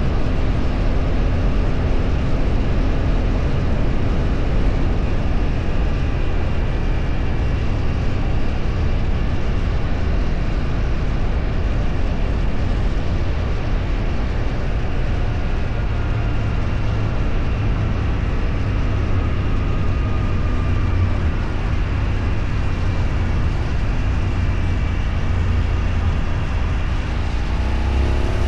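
A road vehicle travelling at speed: heavy wind rush on the microphone over a steady engine and road noise. Near the end an engine note rises as the vehicle accelerates.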